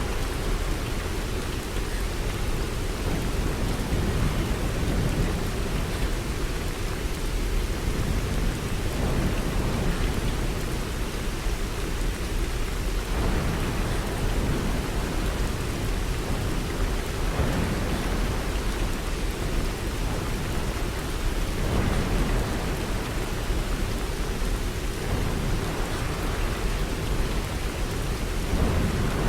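Steady heavy rain with a low storm rumble that swells now and then.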